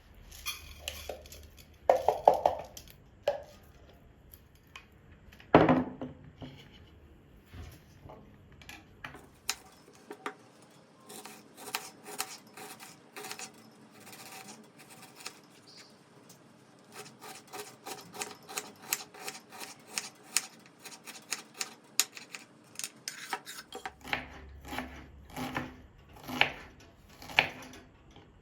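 Kitchen handling sounds: dishes and utensils being moved and set down in a long run of clinks and knocks, with louder knocks about two and six seconds in.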